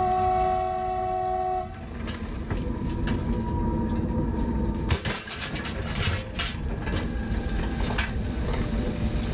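A freight locomotive's multi-note horn sounds as one chord for under two seconds and then cuts off. The locomotive then runs on along the track with a steady low rumble and a few sharp knocks.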